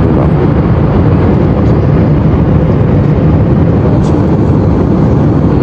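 Steady, loud, low roar of jet airliner cabin noise, an even rushing rumble that does not change.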